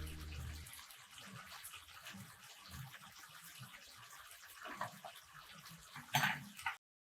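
Faint water sounds, like a tap running or water splashing in a sink, with small ticks, after a low music note fades out. A short, louder splashing noise comes near the end, then the sound cuts off abruptly.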